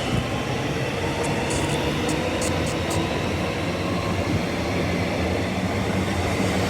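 Electric suburban train running past, a steady rush of wheels on rail with a low hum, and a few sharp clicks about a second or two in.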